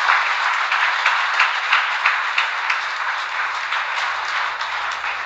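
A crowd applauding and cheering, with many hands clapping. It fades off at the very end.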